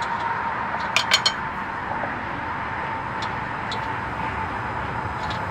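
A quick run of three sharp metallic clinks about a second in, then a couple of fainter ticks, over a steady background hiss.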